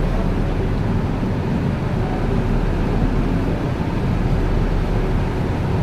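A vehicle running steadily: a continuous low rumble with no breaks or changes.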